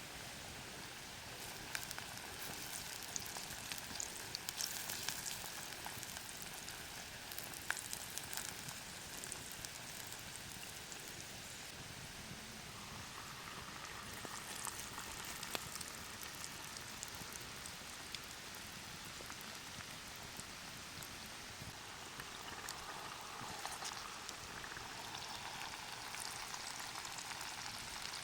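Food sizzling as it fries in a pot over a campfire: a steady hiss with scattered small pops and crackles.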